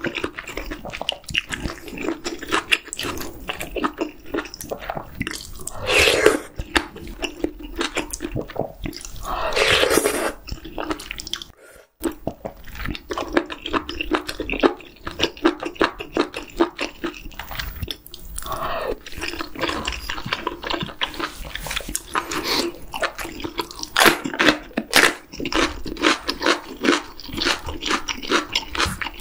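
Close-miked wet chewing of spicy octopus hot pot with chewy noodles and tofu: a dense run of quick smacking mouth clicks, with two longer slurps about six and ten seconds in.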